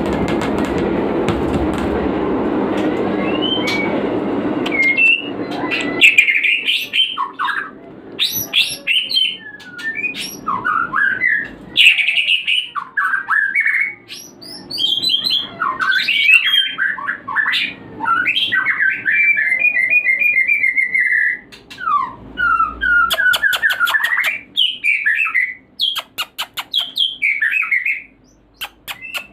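A white-rumped shama singing loud, varied whistled phrases that slide up and down, with quick rattling trills, used as a lure song to bring breeding shamas into mating condition. A steady rushing noise covers the first six seconds and stops sharply.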